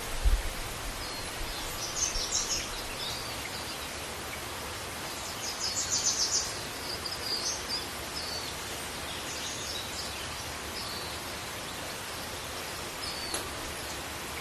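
Steady rushing roar of the Athirappalli waterfall, with small birds chirping in short bursts over it several times. A low thump sounds just after the start.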